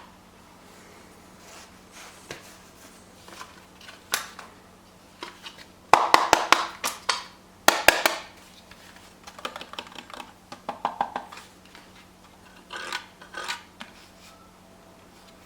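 Hands handling a power supply's packaging and parts: scattered clicks and knocks with bursts of crinkling, loudest about six and eight seconds in, over a faint steady hum.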